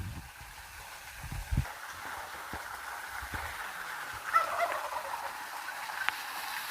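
A bird's short burst of rapid calls about four seconds in, over a steady outdoor hiss, with a few low thumps in the first couple of seconds.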